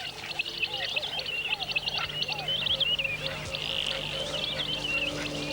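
Wild-sounding chorus of small birds chirping and twittering high up, with short frog calls repeating about twice a second lower down. A faint steady low hum runs underneath.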